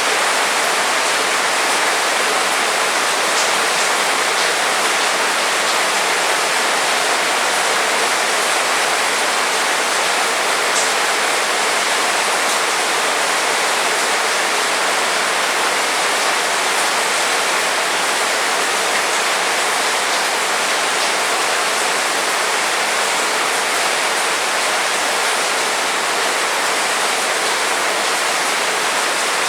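Heavy rain falling steadily: a constant, even hiss with no thunder, and a few faint ticks of single drops.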